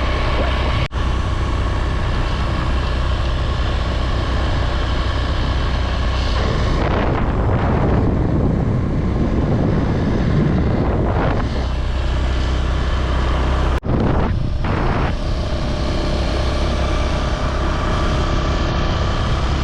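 A vehicle running steadily at cruising speed, its engine drone and road noise continuous, with two momentary dropouts about a second in and near fourteen seconds.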